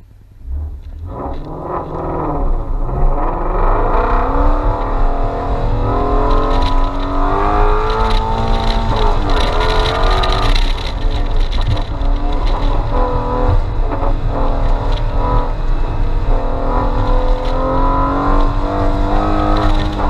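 2016 Shelby GT350's 5.2-litre flat-plane-crank V8 launching hard about half a second in, then running at full throttle, its pitch rising and dropping again and again through gear changes and lifts, heard from inside the cabin.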